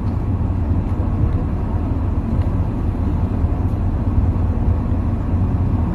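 Steady low rumble, typical of an idling vehicle engine.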